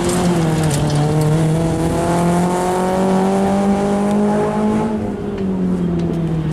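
Rally car engine held at high revs as the car slides round a dirt course, its pitch creeping slowly upward, then falling away about five seconds in as the driver eases off.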